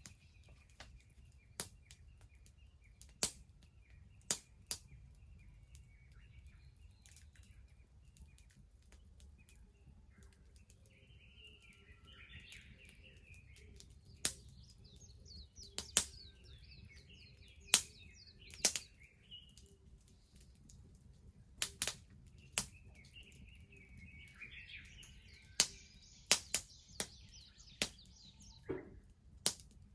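Wood bonfire crackling, with sharp, loud pops at irregular intervals over a low steady rumble. Birds chirp in the background, most clearly at about twelve seconds in and again in the last few seconds.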